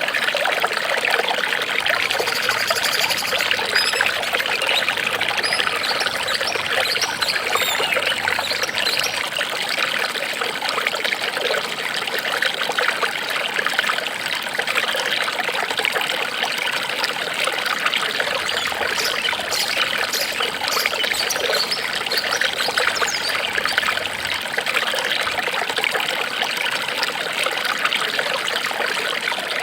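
Water trickling steadily, like a small stream running over stones.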